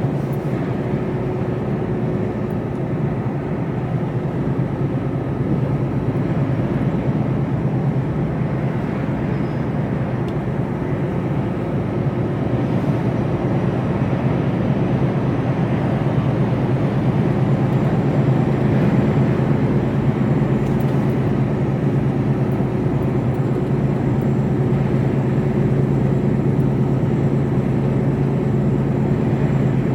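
Steady hum of a Mercedes Actros lorry's diesel engine and tyre noise as heard inside the cab while driving on the road, growing a little louder about halfway through.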